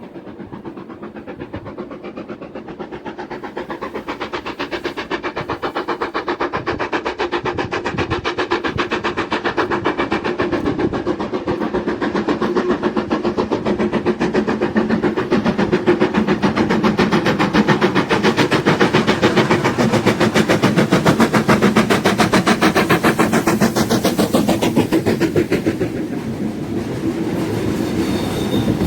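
Steam-hauled train passing close by, its fast rhythmic beat and rail clatter growing louder for about the first half and then staying loud.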